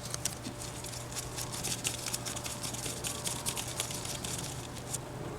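Light, scattered clicks and taps of small carburetor parts being handled and fitted together by hand, over a steady low hum.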